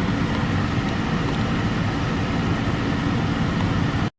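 Steady cabin noise of a 2002 Mazda 626 idling as it warms up after a cold start: a low engine hum under a rush of air from the heater fan. It cuts off suddenly near the end.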